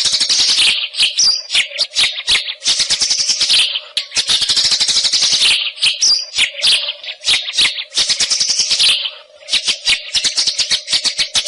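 White-rumped shama singing fast, rattling chattering phrases, each a second or two long with brief pauses between.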